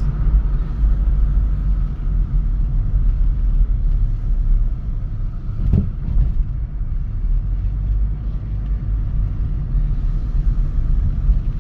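Chevy Cobalt SS running, a steady low rumble heard from inside the car, with a single short knock about six seconds in.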